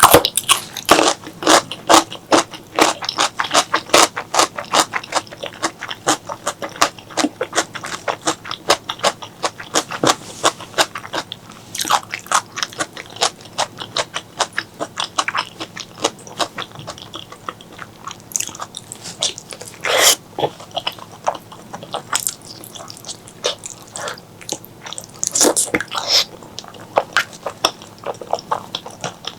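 Close-miked chewing and mouth sounds of someone eating pork leg curry with rice: quick wet smacks and clicks, densest in the first dozen seconds, then sparser, with a few longer, louder bites or slurps later on.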